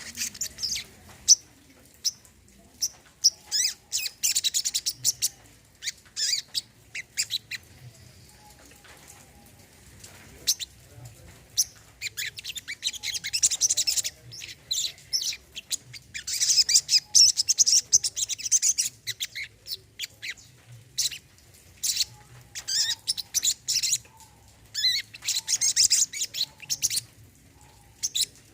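Brown-throated sunbird singing: runs of rapid, high-pitched chirping twitter a second or two long, broken by short pauses.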